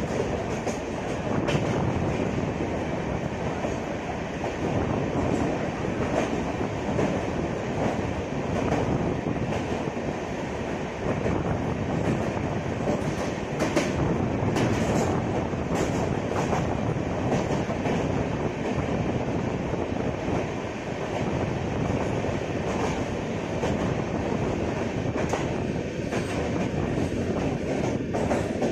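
Passenger express train running at speed: a steady rumble of the coaches on the track, with clusters of sharp clicks from the wheels about halfway through and again near the end.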